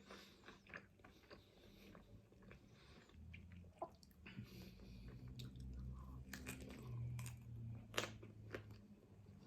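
Close-miked eating: a person chewing and crunching bites of food, with scattered sharp mouth clicks. A faint low hum rises through the middle.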